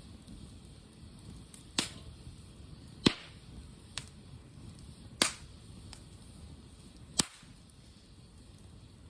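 Small campfire burning, with about five sharp pops from the wood at irregular intervals over a low steady background noise.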